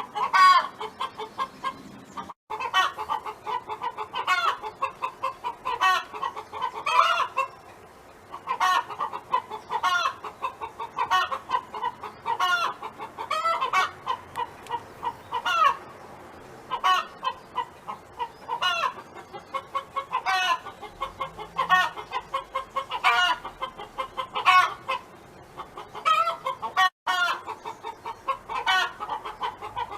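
Hen clucking in a long, rapid run of short clucks, with louder, higher-pitched notes breaking in about every second or so.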